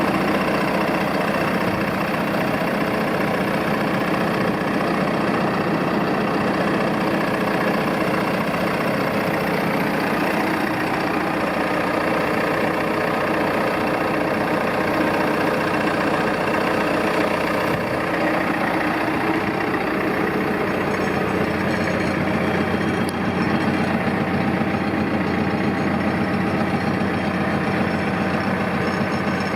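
2012 Landini Powermondial tractor's diesel engine idling steadily, its low note changing a little about two-thirds of the way through.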